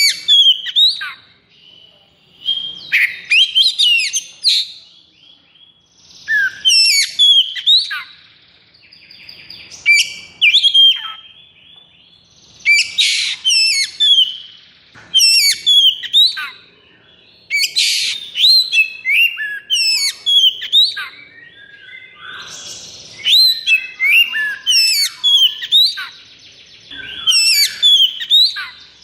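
Oriental magpie-robin (kacer) singing in an agitated, 'konslet' style: loud phrases of rapid rising and falling whistles mixed with harsh rasping notes, a new phrase every one to three seconds with hardly a pause.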